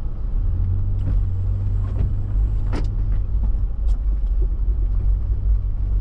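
Steady low rumble of a Toyota 4x4 engine and tyres heard from inside the cab while driving through deep snow, with a few short sharp clicks, the loudest about three seconds in.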